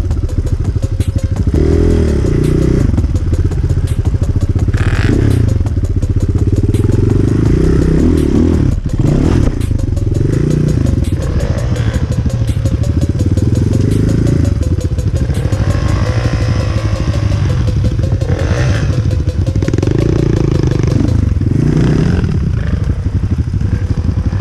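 Enduro dirt bike engine under way, the revs rising and falling repeatedly as it is ridden, with a few knocks from the bike over rough ground.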